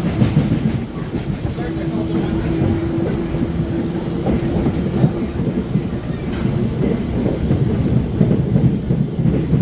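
New York City subway train running through the station, its wheels clattering over the rails with a continuous low rumble. A steady tone is held for about three seconds from about a second and a half in.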